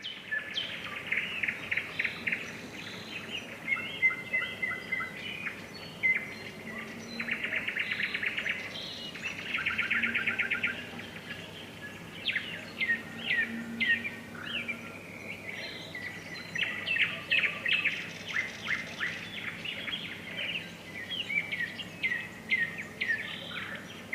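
Songbirds singing in spring: a mix of rapid trills and quick downward-sweeping chirps, some overlapping, with no harsh jay screech standing out.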